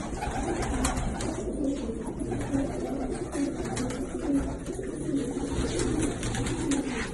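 Domestic pigeons cooing over and over, several birds overlapping.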